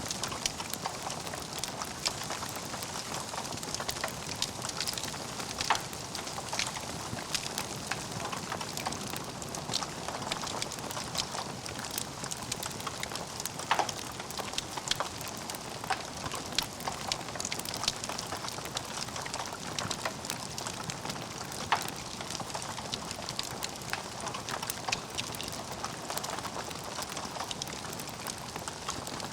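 Logs burning in a fireplace, crackling: a steady hiss scattered with many small sharp pops and a few louder ones.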